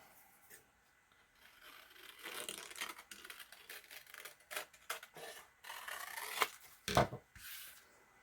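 Scissors cutting and paper being handled, in short intermittent rustles and snips, with a couple of soft knocks on the table about seven seconds in.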